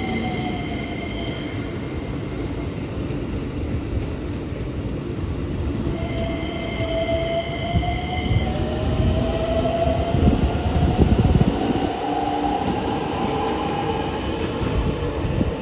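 Keikyu 1000-series electric train passing slowly, its wheels rumbling on the rails, louder around the middle. High squealing tones sound at the start and again about six seconds in, over a whine that rises and falls.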